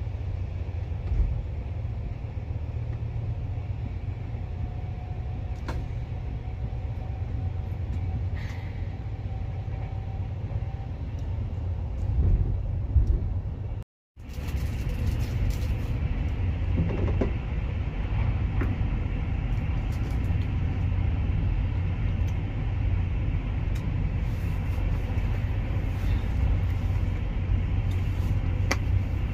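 Running noise heard inside an Intercity express passenger coach: a steady deep rumble of wheels on rail with a few light clicks, at about 75 km/h. After a short break in the sound about halfway through, the train is at about 150 km/h and the rumble is louder and hissier.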